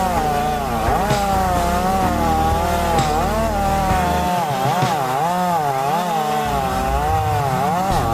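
Chainsaw running and cutting, its engine pitch rising and falling repeatedly as the load changes.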